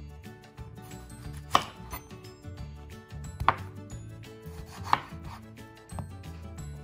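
A kitchen knife chopping down onto a cutting board as a tomato is diced. There are separate sharp cuts, about one every second or two, with the loudest about a second and a half in.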